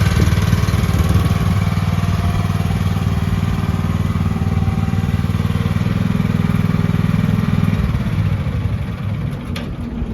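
The 13.5-horsepower gas engine of a MIVA VA13 mini excavator running steadily, then dying down about eight seconds in. A single click comes near the end.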